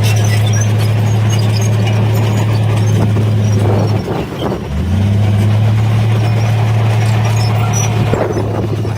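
Diesel engine of heavy earthmoving machinery running steadily under load. It dips briefly about four seconds in, then picks up again and holds steady.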